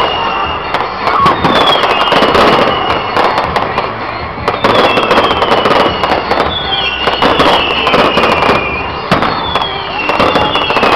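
Fireworks display: dense bangs and crackling from shells bursting overhead, with a high whistle falling in pitch every two to three seconds.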